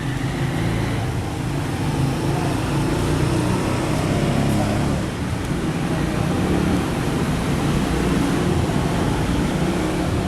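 A steady low background rumble with a faint hum, like distant traffic or a running machine.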